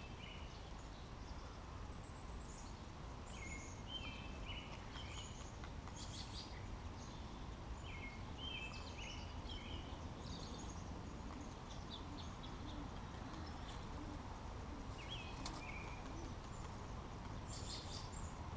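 Small birds chirping and calling on and off, short high notes scattered throughout, over a faint steady low rumble of background noise.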